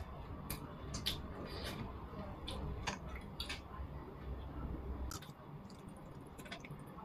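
Chewing and wet mouth smacks while eating a sticky taro-paste mochi cake, with a scatter of short, sharp clicks.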